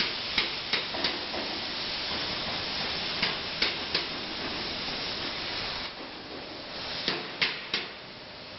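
CNC plasma cutting machine at work: a steady hiss broken by sets of three sharp clicks about every three seconds. The hiss drops off briefly about six seconds in and again near the end.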